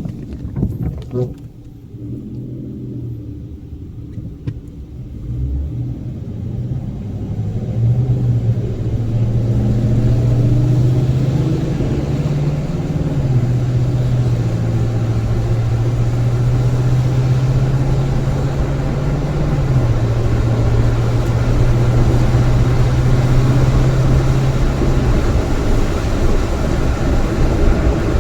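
Motor vehicle running over a loud, steady rush of noise. Its low engine note rises slowly and drops twice, as with gear changes, then fades into the rush near the end.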